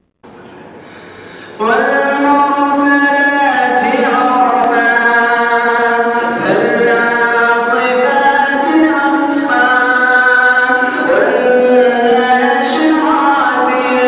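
Male reciter chanting the Quran in a slow, melodic recitation style, holding long notes with ornamented turns between them. The voice comes in about a second and a half in, after a faint hiss.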